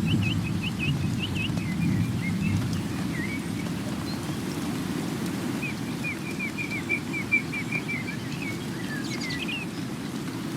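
Songbirds chirping in short repeated calls, with a quick trill of about ten notes past the middle, over a steady low rushing background.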